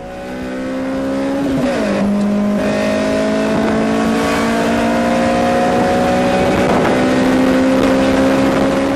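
Toyota 2ZZ-GE 1.8-litre four-cylinder engine pulling hard under acceleration. Its pitch drops at a gear change about a second and a half in, then climbs steadily through the next gear.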